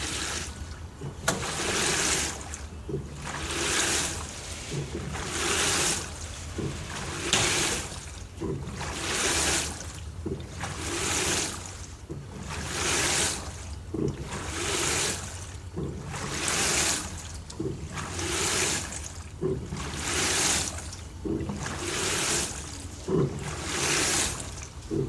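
LG TurboDrum top-loading washing machine washing a full load of bedding: water and wet fabric swish in the drum about every two seconds as the wash action reverses, over a steady low motor hum.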